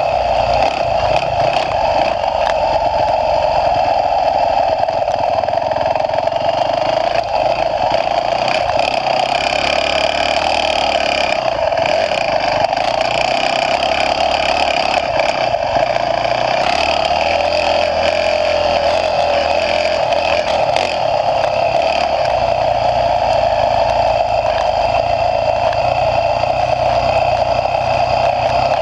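Motocross dirt bike engine running under load while riding the track, heard through a bike-mounted GoPro action camera; loud and fairly steady throughout.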